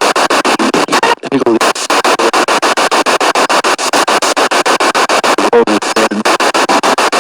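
Spirit box radio sweeping rapidly through stations: loud static chopped many times a second, with brief snatches of broadcast sound and a couple of short breaks.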